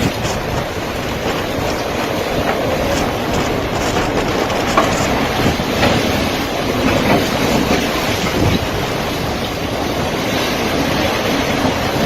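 Strong storm wind blowing hard and continuously as a loud, dense rush with deep rumble, with a few faint clicks scattered through it.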